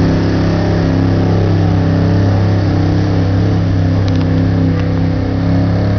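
2002 Dodge Ram 1500's 4.7-litre V8 running hard at steady high revs under heavy load, pulling a weight sled. The pitch stays level throughout, with a slight dip in loudness near the end.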